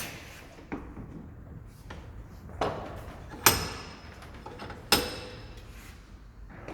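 A series of about five sharp metallic clanks, each with a short ringing tail, the loudest two a little past the middle, as metal parts or tools are knocked together in a diesel repair shop.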